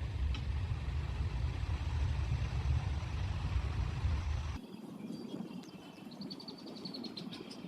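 A steady low rumble cuts off suddenly a little over halfway through. What follows is quieter, with high chirps from a bird and a short, rapid trill near the end.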